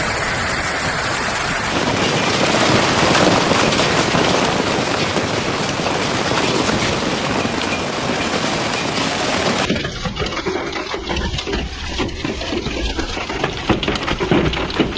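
Hailstorm with heavy rain: a dense, steady hiss of falling hail and water. About ten seconds in it changes abruptly to a sparser sound with many scattered sharp knocks, like hailstones striking hard surfaces.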